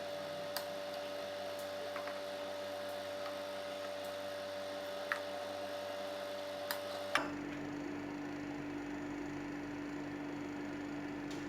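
A steady hum over a faint hiss, with a handful of faint, sharp clicks; about seven seconds in the hum drops to a lower pitch.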